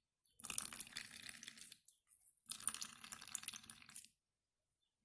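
Blended beetroot-and-carrot juice being strained, liquid trickling and splashing in two bursts of about a second and a half each.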